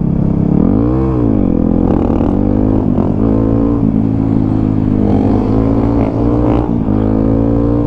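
Dirt bike engine running under way, its pitch rising and falling with the throttle. There is a quick rev up and back down about a second in, then slower climbs in revs with a sudden drop about six and a half seconds in.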